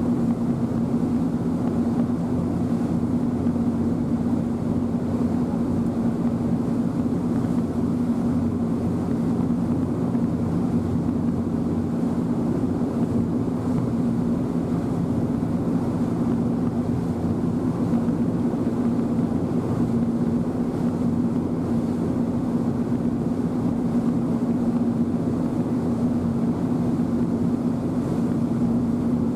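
Passenger boat's engine running steadily under way, a constant low hum over a rushing noise, heard on board.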